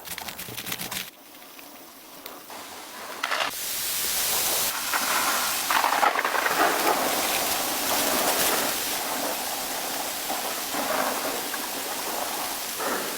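A few crackling clicks, then about three and a half seconds in a steady hiss of heavy rain sets in and holds.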